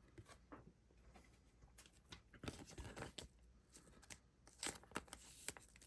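Faint clicks and rustles of trading cards being handled and slid past one another, with two slightly louder stretches of rustling.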